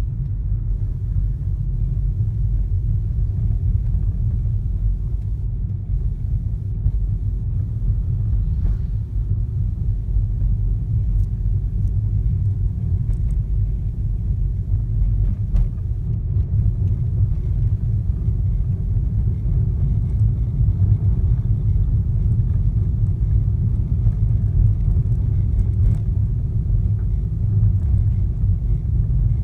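Steady low rumble of a car being driven, heard from inside the cabin, with a few faint knocks now and then. The car has a noisy steering column.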